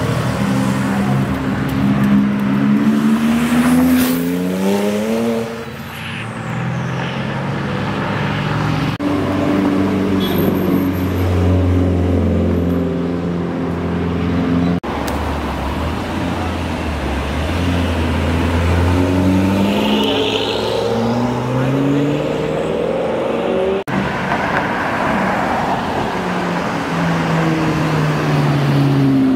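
Several cars accelerating past one after another in separate clips, their engines revving up through the gears, the pitch climbing and falling back at each shift. A Porsche 911's flat-six is heard at the start and a BMW M6 Gran Coupé's twin-turbo V8 near the end.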